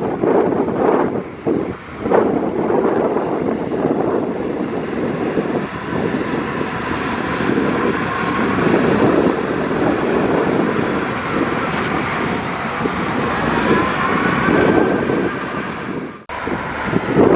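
Heavy diesel earthmoving machinery running steadily, with a faint rising whine about two-thirds of the way through. The sound drops out for an instant near the end.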